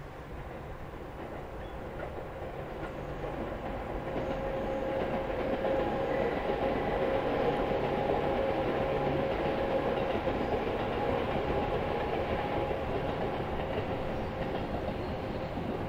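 Seibu 10000 series Red Arrow limited express train running past. It grows louder to a peak about halfway, then eases off a little, with a steady whine over the rumble of the train.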